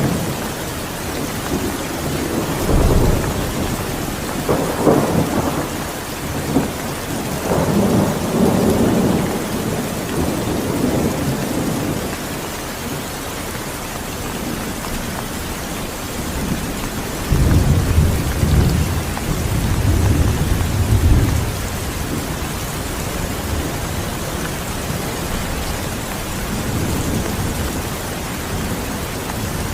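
Steady heavy rain with rolling thunder: a long low rumble through the first third, then a second rumble a little past the middle.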